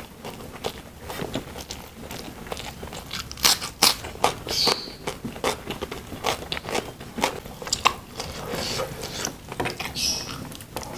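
A person eating rice with sautéed green beans and corn by hand: chewing and mouth sounds, a dense irregular run of short wet clicks and crunches.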